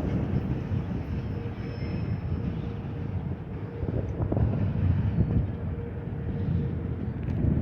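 Low, steady rumble of a train rolling on past, quieter than the wheel clatter of its closer cars.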